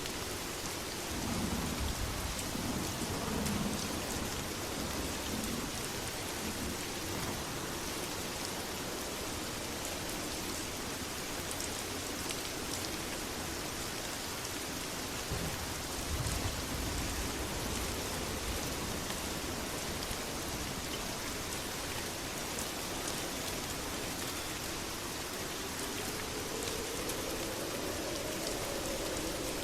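Steady heavy rain, with low rumbles of thunder about a second in and again around the middle. A faint, wavering low tone rises near the end.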